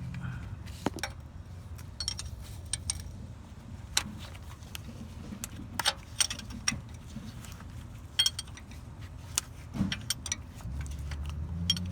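Irregular metallic clicks and clinks of a hand wrench and socket working a CV axle's mounting bolt, with short rings after some of the strikes.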